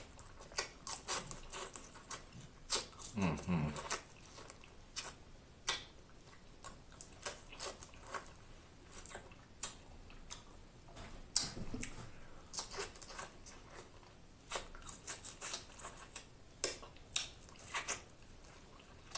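Close-miked chewing and wet lip-smacking as a person eats snow crab meat, a steady stream of irregular short clicks and smacks. A short hummed 'mm' of enjoyment about three seconds in.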